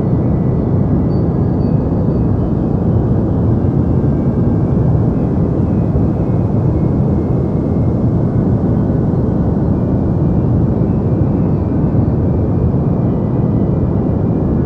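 Deep white noise for sleep: a steady, unbroken low rushing hiss, heavy in the bass and dull at the top, like an airplane cabin drone.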